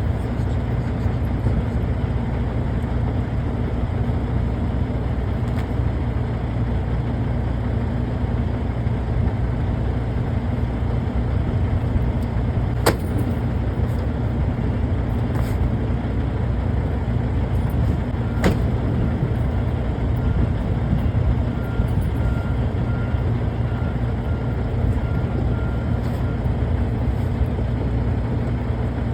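Steady low rumble of an idling diesel truck engine, with two sharp knocks about halfway through.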